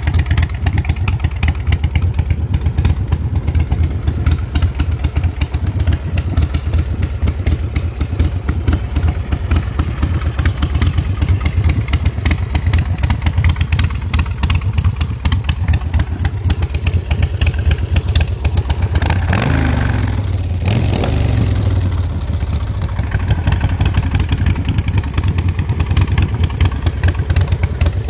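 2005 Big Dog chopper's S&S V-twin engine running loud and steady, revved up once about two-thirds of the way through.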